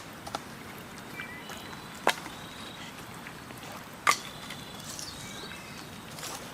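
Sharp knocks, a small one near the start, then two loud ones about two seconds apart, the last the loudest, over a steady outdoor hiss with faint short high chirps in between.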